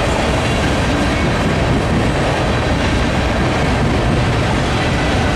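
Freight train of empty covered hopper cars rolling past at close range: a steady, loud rumble of steel wheels on the rails.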